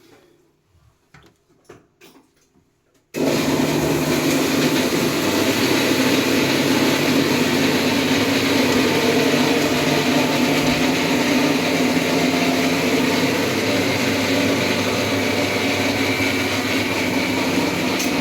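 RO water purifier's booster pump switched on about three seconds in, then running steadily with a low hum under a rushing noise.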